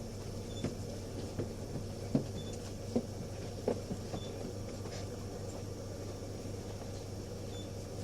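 Nissan Diesel UA city bus's diesel engine idling steadily, heard from inside the cabin. Scattered knocks and clicks fall in the first half, and a faint short high beep repeats about every second and a half to two seconds.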